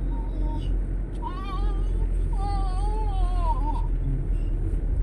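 A baby vocalizing in a high, gliding, sing-song voice for about two and a half seconds, starting about a second in, over the steady low rumble of a vehicle.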